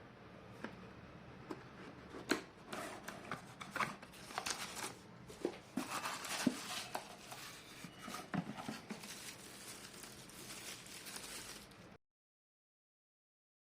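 Irregular handling sounds: scattered clicks, taps and rustling, busiest in the middle, cutting off abruptly to dead silence near the end.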